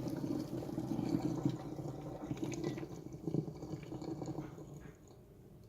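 Boiled rice being strained: water draining and dripping through a strainer, with a few light knocks, dying away after about four and a half seconds.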